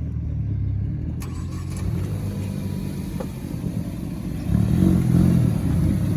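Car engine running as the car is moved slowly, a steady low rumble that grows louder about four and a half seconds in as it picks up revs.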